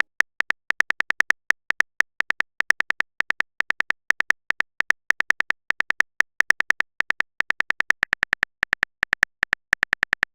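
Rapid run of short, sharp phone-keyboard tap clicks from a chat-story app's simulated typing sound effect, about five to seven clicks a second in slightly uneven bursts, as a message is typed out.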